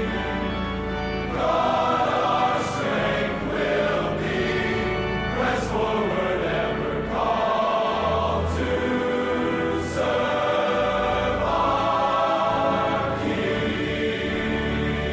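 Choral music: a choir singing sustained phrases over a steady low accompaniment.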